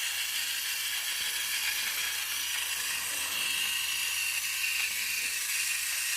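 Battery-powered Fisher-Price TrackMaster James toy engine running along its track pulling coaches: a steady high-pitched whir from its small geared motor.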